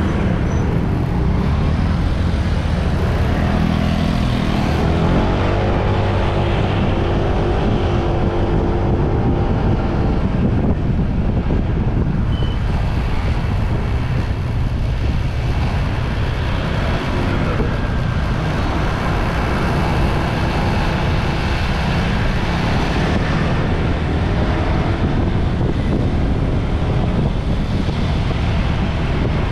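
Motorbike running on the road at speed, with a heavy low rumble of wind and road noise. The engine note rises and falls several times as the throttle changes.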